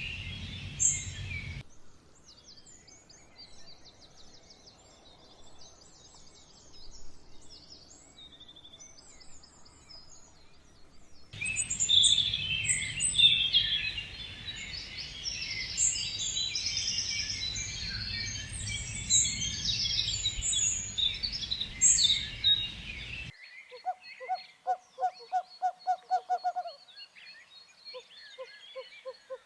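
Birdsong in several spliced takes that cut abruptly from one to the next: high chirping and trilling from many birds, sparser for a stretch, then dense and loud. Near the end the chorus gives way to a quick rhythmic series of lower hooting notes.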